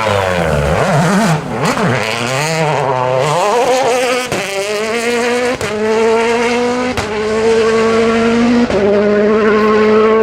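2017 World Rally Car's turbocharged four-cylinder engine. It revs up and down for the first few seconds, then accelerates hard through three upshifts about a second and a half apart, the pitch climbing between each, with a short crack at every shift.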